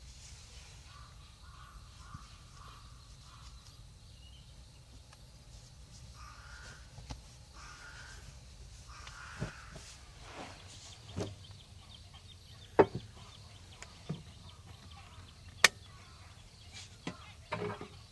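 A bird calls repeatedly in the distance, a run of short calls in the first few seconds and a few more later. Several sharp clicks and knocks come in the second half, the loudest about 13 and 16 seconds in.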